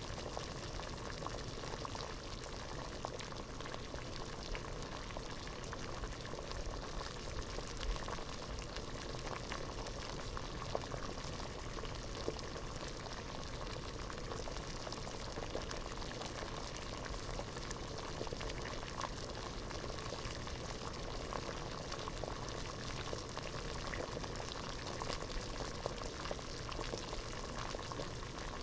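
Water bubbling at a steady rolling boil in a pot, a dense stream of small pops and bubbling over an even hiss.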